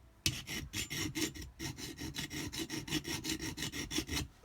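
Hand file rasping back and forth over a metal jet-pump part in quick, even strokes, about four a second. It is taking off burred, furled-over edges to bring the part back to a flat surface.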